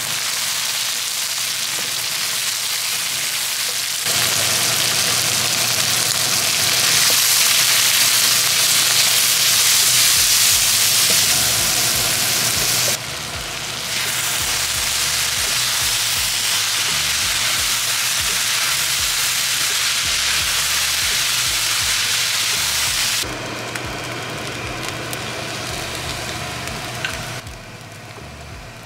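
Chopped onion, tomato and peanuts sizzling in hot oil in a wok, stirred with a wooden spatula; soaked poha (flattened rice) is stirred in. The loud frying hiss steps up and down abruptly several times.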